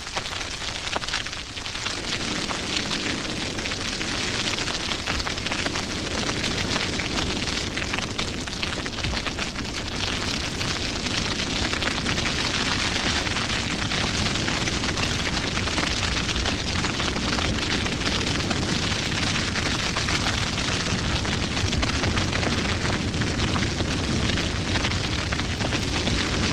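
Grass fire burning through dry savanna grass: a dense, steady crackling of flames with many small pops, growing fuller about two seconds in.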